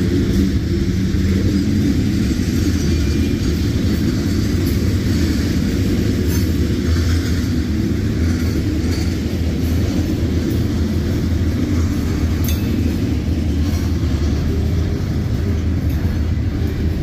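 Freight cars of a CSX manifest train rolling past: tank cars and covered hoppers making a steady, loud rumble of steel wheels on rail, with a couple of brief sharp clicks.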